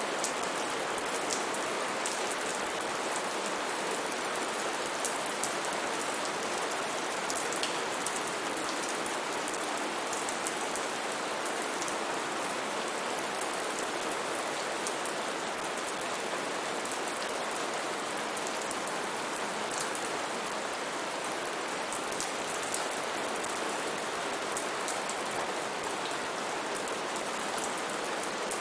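Steady heavy rain falling on foliage and ground, a dense even hiss with individual drops ticking through it.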